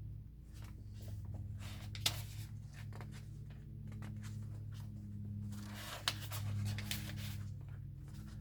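Paper pages of a service manual being turned and rustled, in two bursts, each with a sharp flick, over a steady low hum.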